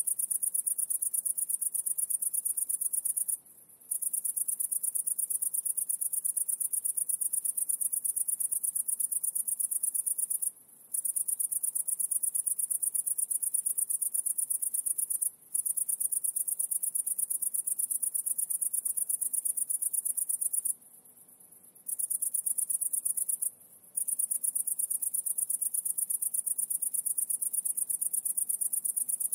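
A high-pitched insect trill, a fast, even pulsing that stops short several times for a moment, once for about a second, then starts again.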